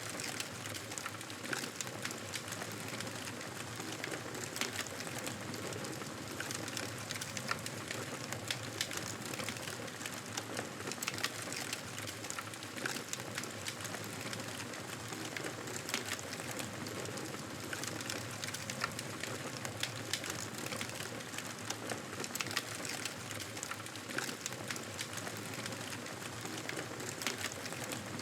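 Campfire burning, a steady hiss with many small irregular crackles and pops from the burning wood.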